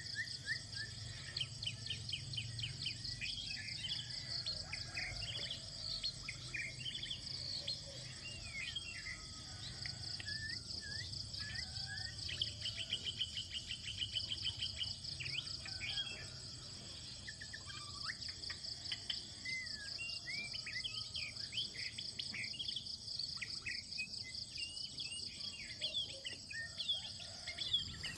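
Birds chirping and calling over a steady, high-pitched drone of insects such as crickets, with a fast trill about halfway through.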